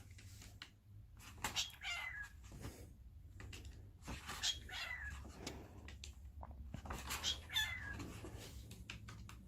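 Meowing calls: three main meows about three seconds apart, each sliding down in pitch, with fainter calls between them over a steady low hum.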